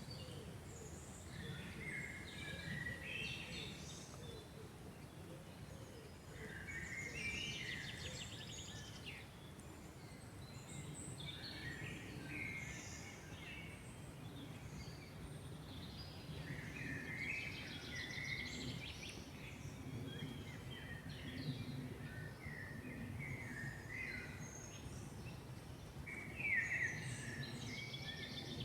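Several songbirds singing in a forest, phrases of chirps and warbles coming every few seconds over a steady low background rumble.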